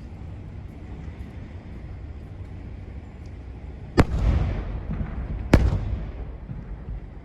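Two aerial firework shells bursting, about a second and a half apart, each sharp bang followed by an echoing crackle as it dies away, over a low rumble.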